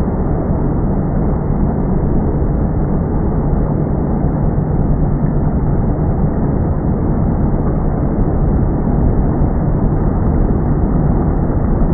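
Motorboat engine running steadily, a low even drone with no change in pitch.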